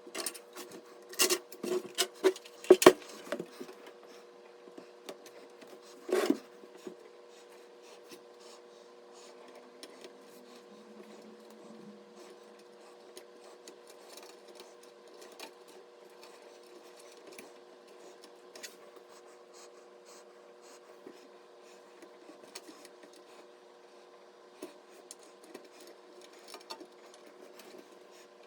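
Hard PC parts being handled: a quick run of sharp clicks and knocks in the first three seconds and another knock about six seconds in, then faint small ticks and rubbing, over a steady hum.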